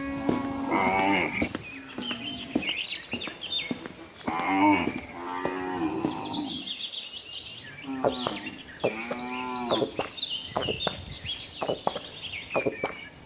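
Cattle mooing, several drawn-out calls one after another.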